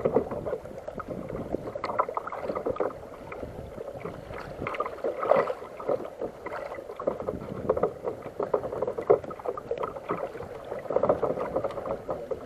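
Water sloshing and slapping against a kayak's hull, with irregular small knocks and splashes.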